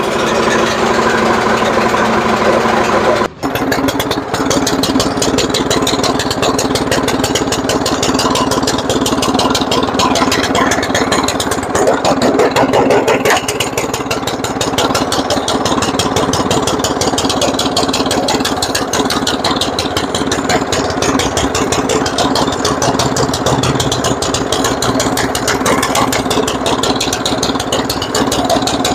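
Snowblower's small gasoline engine running steadily, just started on the first crank after being primed. Its sound dips sharply for a moment about three seconds in, then it runs on evenly.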